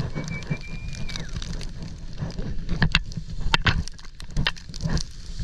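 Snowboard riding through deep fresh powder, with wind rumbling on the microphone and sharp crunching cracks from the snow, thickest around the middle.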